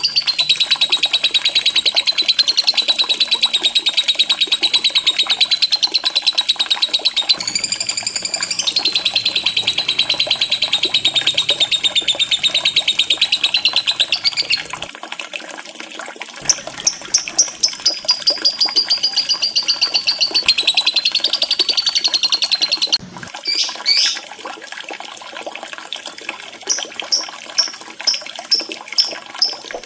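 Lovebird giving long, very fast chattering trills of high, rapidly repeated notes, broken by a short pause about halfway through. Near the end it switches to separate short chirps, a few each second.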